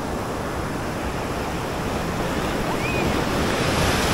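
Ocean surf washing in on a shallow beach break, a steady rush of breaking waves that swells louder toward the end.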